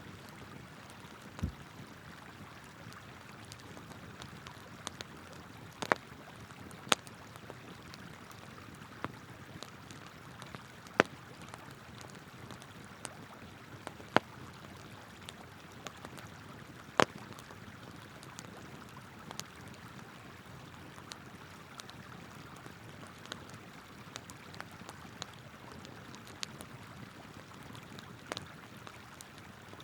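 Wood campfire crackling, with sharp irregular pops every few seconds, over the steady rush of a flowing river.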